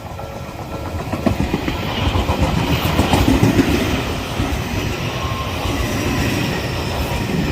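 An Odakyu Enoshima Line train passing at a level crossing, its wheels clattering over the rail joints. It grows louder about a second in and is loudest a couple of seconds later.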